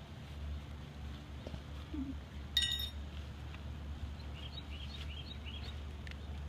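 Quiet outdoor ambience with a steady low rumble, and small birds chirping in quick series in the background near the end. One short, sharp, high clink about two and a half seconds in.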